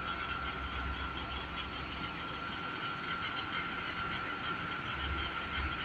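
John Deere tractor's diesel engine running steadily, with a constant whine over a low rumble.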